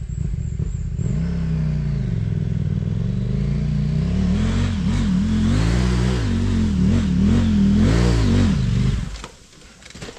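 Motorcycle engine revving, its pitch rising and falling again and again as the rider works the throttle. It cuts out suddenly about nine seconds in.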